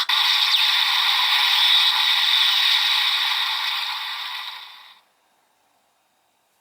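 Electronic sound effect from a Bandai DX Kamen Rider Gavv toy's small speaker: a dense, high, noisy effect with no low end. It fades and stops about five seconds in.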